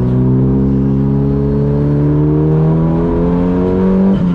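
Megane RS turbocharged four-cylinder engine in a Renault Clio track car, accelerating hard, its pitch rising steadily through a gear. Near the end a gear change drops the revs.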